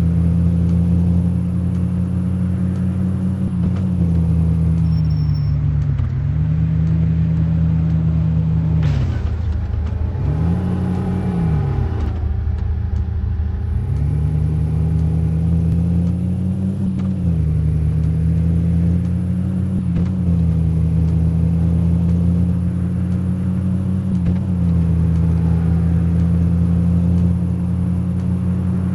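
Car engine running while driving, its pitch dipping and rising again several times as the revs change.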